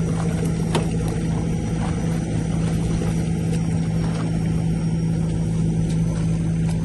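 An engine running steadily at a constant speed, with a deep, even hum and no change in pitch.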